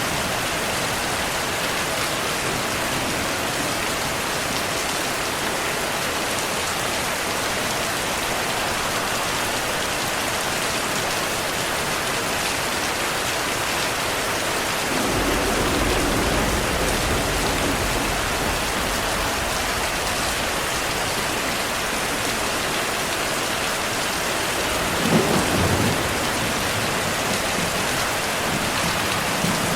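Steady rain falling, with a low roll of thunder that comes in about halfway and lasts a few seconds, and a shorter, sharper thunder rumble near the end.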